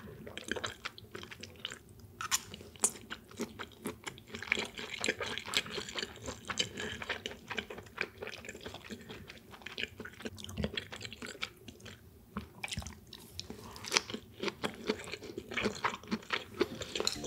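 Close-miked chewing of flounder nigiri sushi: soft mouth sounds made of many small, quick clicks and smacks.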